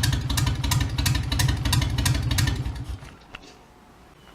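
Engine running with an even, rhythmic beat, then shutting off about three seconds in, followed by a faint single click.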